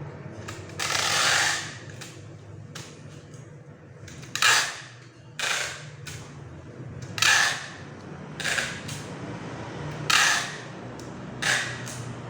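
Nail gun firing into wooden crate boards: about seven shots spaced irregularly a second or two apart, each a short sharp burst with a brief hiss, over a steady low hum.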